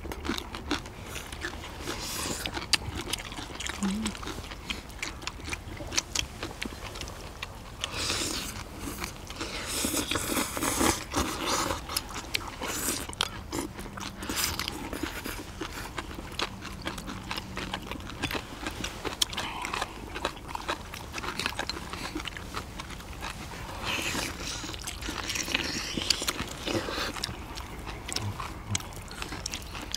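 Close-miked chewing of mouthfuls of steamed monkfish with bean sprouts, with many short clicks of chopsticks on plates and bowls.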